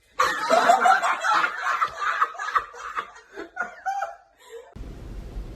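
A person laughing hard in choppy bursts for about four and a half seconds, then it cuts off and a low steady rumble takes over.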